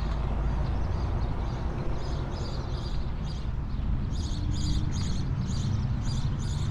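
A bird calling in short, high, repeated chirps, about three a second, growing clearer about halfway through, over a steady low rumble.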